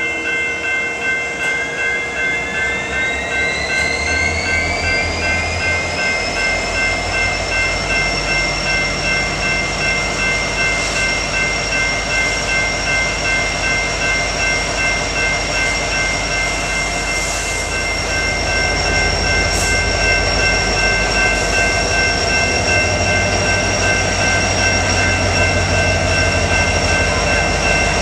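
Train rolling through street trackage with steady, pulsing grade-crossing bells. A whine rises in pitch a few seconds in and then holds steady over a low rumble, which grows louder again past the middle.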